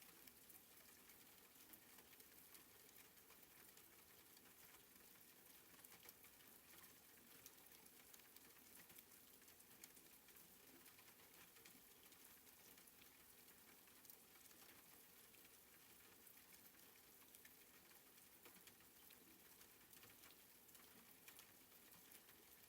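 Soft rain falling, faint and steady: a light patter of drops.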